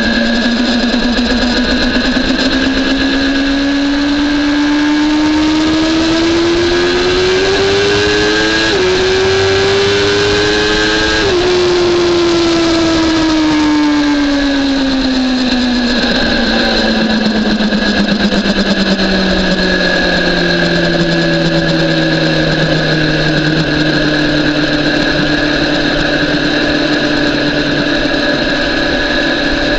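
BMW S1000RR's inline-four engine at low, gentle revs, climbing slowly through two quick upshifts about nine and eleven seconds in. The revs then fall away as the throttle is rolled off and settle low and steady, with steady rushing noise underneath.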